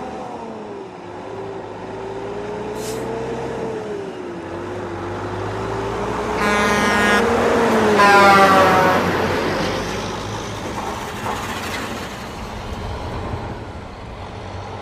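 Heavy tow truck running and pulling away, giving two horn blasts about six and eight seconds in, the second one falling in pitch.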